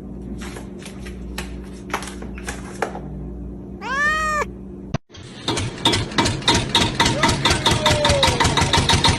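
A cat gives one drawn-out meow that rises and falls, about four seconds in, over a steady low hum with a few sharp clicks. After a cut, a loud, fast, even rattling pulse of about eight beats a second begins, with a brief falling cry inside it.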